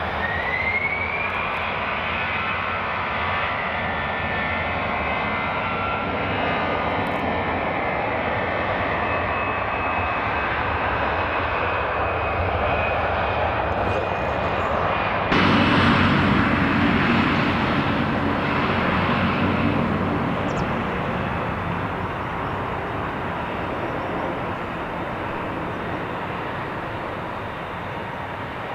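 Airliner jet engines spooling up to takeoff power, with a rising whine over the engine noise. About halfway through the noise jumps suddenly louder and fuller, then slowly fades as the aircraft departs.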